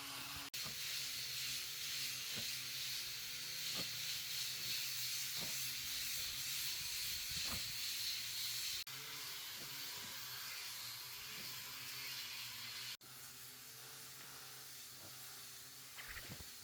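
Steady high-pitched hiss over a faint low hum, broken off abruptly three times and quieter after the last break.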